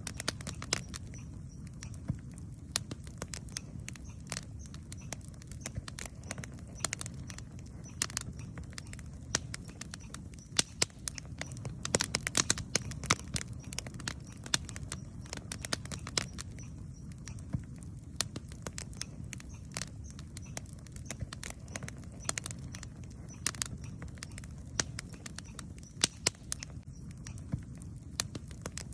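Wood campfire burning, with a steady low rumble and irregular sharp crackles and pops.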